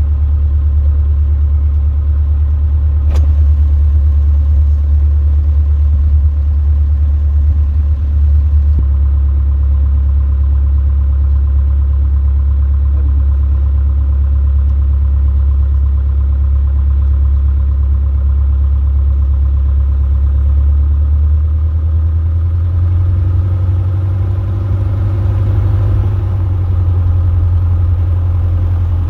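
Robin DR400 light aircraft's piston engine running steadily at low taxi power, a constant low drone; about 21 seconds in its note shifts slightly as the power changes. A single sharp click about 3 seconds in.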